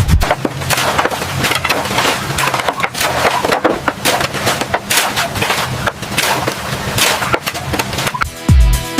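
Construction work: a rapid, irregular string of knocks and clatter. Music with a heavy bass beat comes in near the end.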